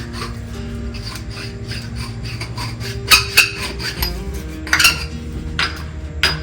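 Metal pipe end being scrubbed clean by hand before soldering: a series of short scraping, clinking strokes, the loudest about three, five and six seconds in, over steady background music.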